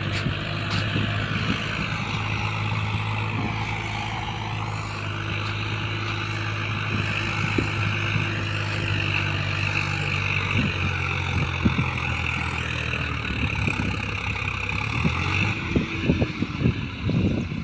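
Swaraj 744 tractor's diesel engine running steadily with a fully loaded trolley in tow. About three-quarters of the way through, its steady note drops away, and a series of sharp knocks and rattles follows near the end.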